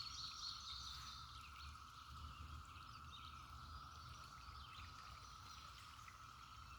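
Faint riverside ambience: a steady, even hum, with a few light bird chirps in the first second or so.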